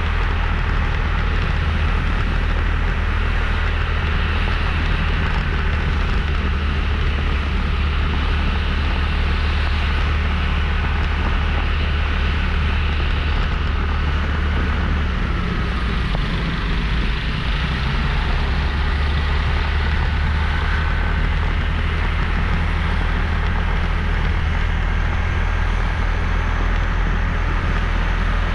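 Motorbike running steadily along a road, with a constant rumble of engine, road and wind noise and a slight dip partway through.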